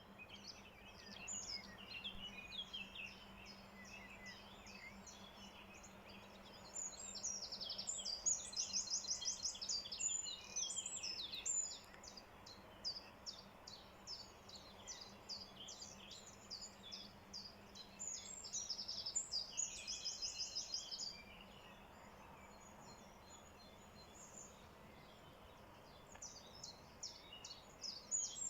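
Songbirds singing at dawn: quick chirps throughout, with two runs of fast trilled notes, about a third of the way in and about two thirds in.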